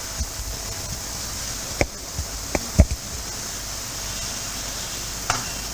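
Crickets chirping steadily in the background, with a few short knocks about two to three seconds in.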